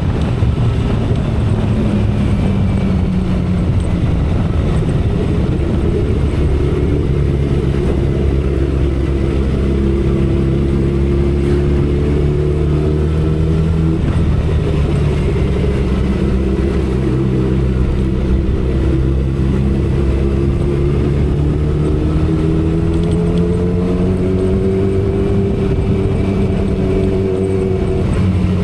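2012 Kawasaki Ninja ZX-10R's inline-four engine and exhaust running at cruising speed, with a low rumble of wind beneath it. The engine note holds fairly steady, drifting gently lower and higher with small throttle changes rather than hard revving.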